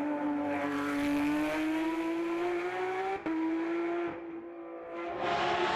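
Hill-climb race car's engine pulling hard, its note slowly rising. It breaks sharply about three seconds in, eases off about four seconds in, and comes back on the throttle near the end.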